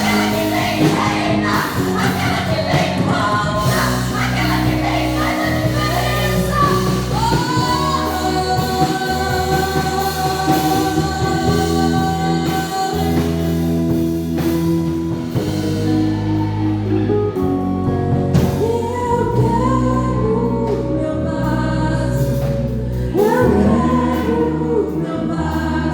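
Gospel worship music: singing over sustained keyboard chords and a steady bass line.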